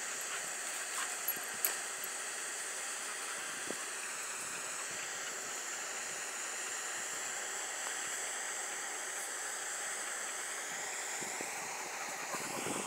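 Steady outdoor background hiss, with a few faint clicks about a second and a half in.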